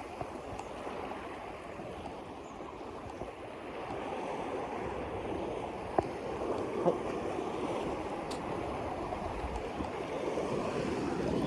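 Steady rushing of water, slightly louder in the second half, with a sharp click about six seconds in and a soft knock just after.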